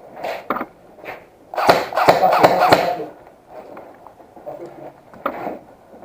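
Airsoft rifle firing: a couple of short pops, then a rapid burst of shots lasting about a second and a half.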